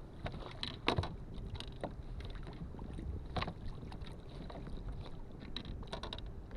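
Knocks and clatter on a fishing kayak, over a low rumble of wind on the microphone; the sharpest knocks come about a second in and again a little past three seconds.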